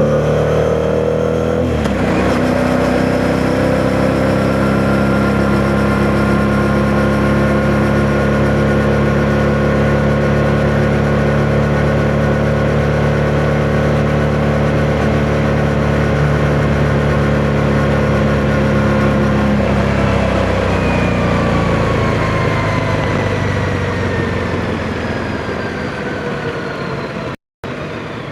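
Yamaha MT-07's parallel-twin engine under way: it revs up, shifts gear, then holds a steady pitch at cruising speed before slowly winding down as the bike slows. Wind noise on the microphone runs under it, and the sound drops out abruptly near the end.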